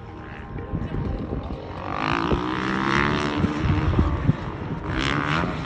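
Small youth motocross bike engine buzzing, its pitch rising around two to three seconds in as it revs up.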